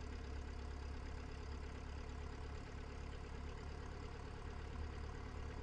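Cessna 172's piston engine idling steadily, a low even hum, with the throttle brought back to idle after the run-up checks.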